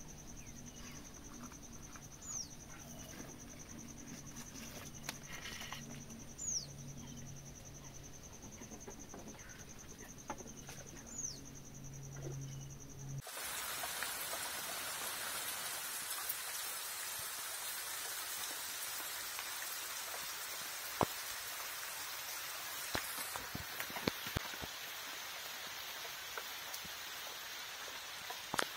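Heavy rain pouring onto a lake, a steady loud hiss that starts abruptly about halfway through, with a few sharp taps of drops. Before it, a steady high insect drone with three short falling bird whistles.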